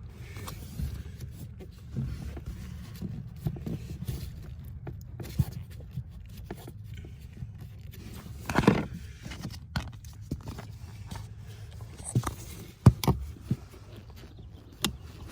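Scattered clicks, knocks and scrapes of a socket driver working on the blower motor's mounting screws, with a louder scrape about nine seconds in and a cluster of sharp clicks near the end, over a steady low rumble.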